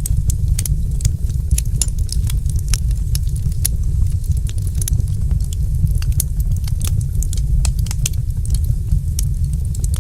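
Wood fire in a fireplace crackling: many irregular sharp snaps and pops over a steady low rumble.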